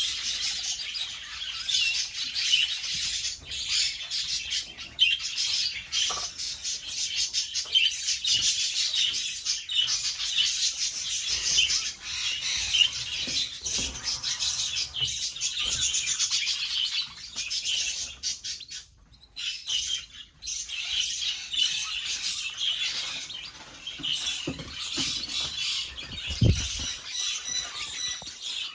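Domestic canaries chirping and twittering in rapid, high trills. The birdsong goes on almost without pause, with a short lull about two-thirds of the way through and a low thump near the end.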